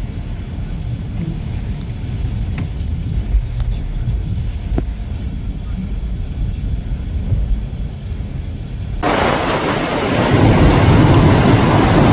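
Blizzard wind buffeting the microphone as a low rumble; about nine seconds in it switches abruptly to a louder, full hiss-and-roar of gale-force wind.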